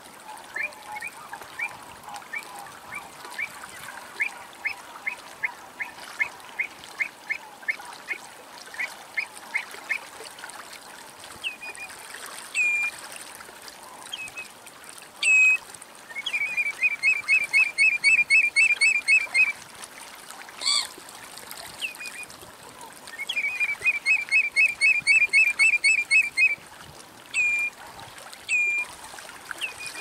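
Bird calls: a run of short rising chirps, two or three a second, for about the first ten seconds, then scattered single notes and two fast trills of about eight notes a second, one past the middle and one near the end.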